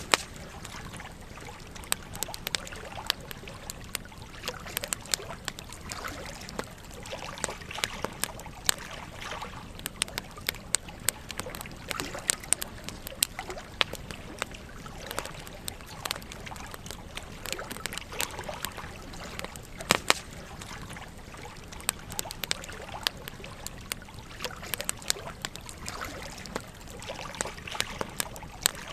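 Campfire crackling: frequent sharp, irregular pops and snaps over a steady hiss of burning.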